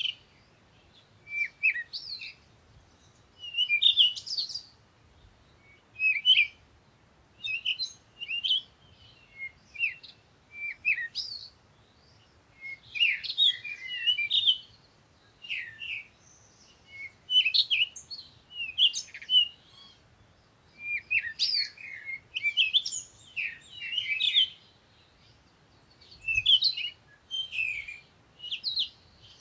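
Songbirds chirping and singing: short runs of quick, high chirps and whistles, one every second or two, with quiet gaps between.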